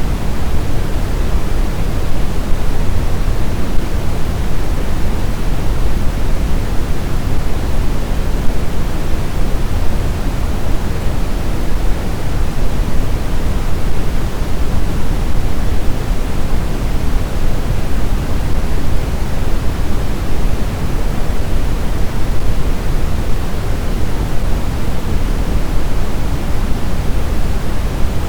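Steady blizzard wind: a dense rushing noise, heaviest in the low end, that stays even throughout with no distinct gusts, howls or whistles.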